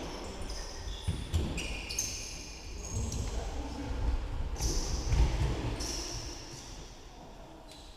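Indoor football match: the ball thumping off feet and the floor, with players' shouts, echoing in a sports hall.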